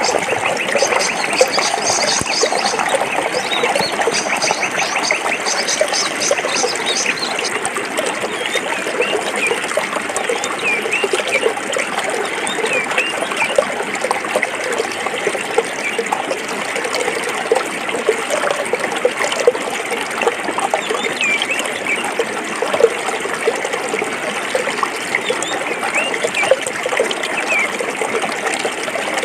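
Stream water flowing steadily over rocks. Birds call over it: a fast, high trill through the first several seconds, then short chirps scattered through the rest.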